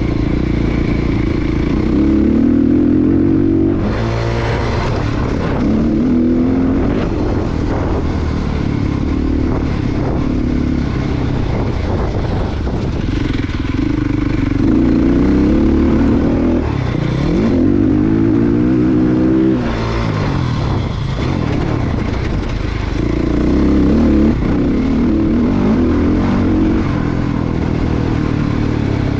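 Motocross dirt bike engine revving hard and easing off over and over, its pitch climbing, breaking at gear changes and falling again as the bike accelerates and slows around the track.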